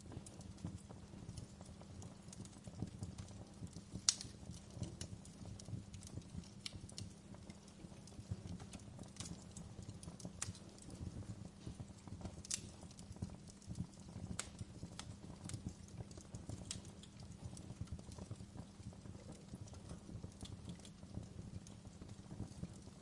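Wood fire crackling in a stone fireplace: a low steady rumble of burning with irregular sharp pops and snaps, the loudest about four seconds in and again around twelve seconds in.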